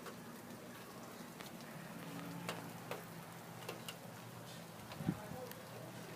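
Light rain falling, with scattered sharp drip ticks of single drops hitting a surface close by. A brief low thump about five seconds in.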